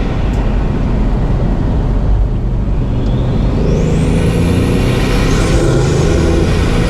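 Bugatti Mistral's 8.0-litre quad-turbocharged W16 engine running under way with a low rumble, while a high turbo whistle rises about three seconds in, holds, then falls away near the end.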